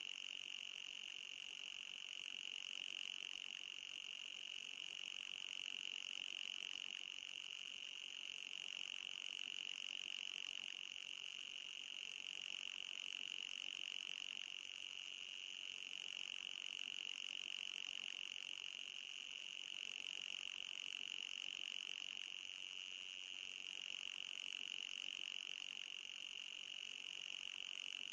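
Electronic anti-mosquito repellent sound: a steady high-pitched buzz with a fainter, higher hiss above it, swelling gently every few seconds.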